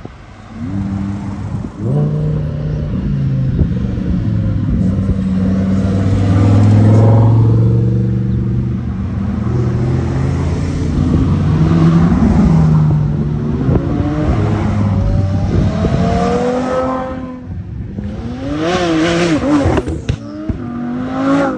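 A convoy of supercars driving past one after another, several engines running at once at different pitches, with revs climbing as they pull away. Near the end one engine gives a quick series of rev blips.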